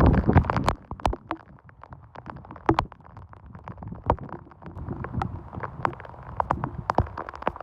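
Rain falling, with many sharp, irregularly spaced drops striking a hard surface close by.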